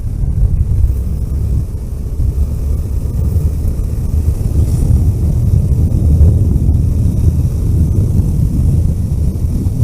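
A car driving along a road: a steady low rumble of engine and tyre noise, with no change in pace.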